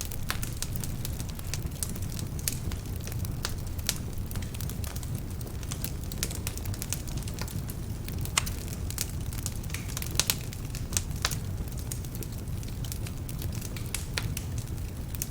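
Wood fire burning in a fireplace: a low, steady rumble of flames with frequent sharp crackles and pops from partly damp logs. A few louder pops come past the middle.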